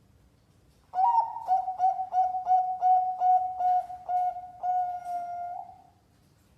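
Zebra dove (perkutut) cooing: a run of about a dozen quick, short coos on one steady pitch, roughly three a second, closing on a longer held note, starting about a second in.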